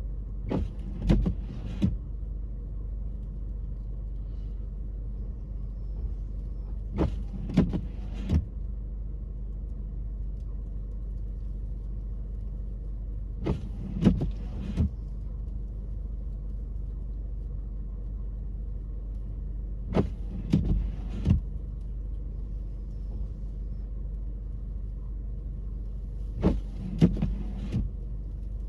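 Steady low rumble of a car driving, heard from inside the cabin. Every six and a half seconds or so, a short cluster of knocks and a motor whir from the windshield wipers making an intermittent sweep to clear falling snow.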